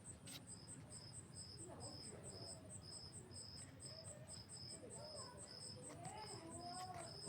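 Faint, steady chirping of insects in two regular pulse trains: a high-pitched one repeating about four or five times a second, and a lower one about twice a second that joins about half a second in.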